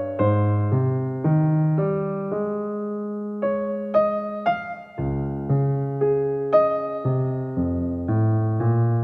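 Background music: a slow, gentle piece on electric piano, with a new note or chord about every half second over sustained bass notes.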